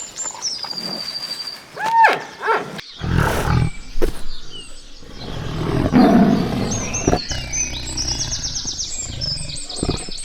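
Animal calls: low, rough grunting or roaring stretches a few seconds in, with small birds chirping in quick trills near the start and near the end.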